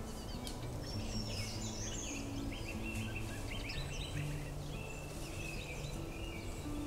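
Small forest birds chirping and calling in quick short notes, over soft background music of low held notes that change pitch every second or so.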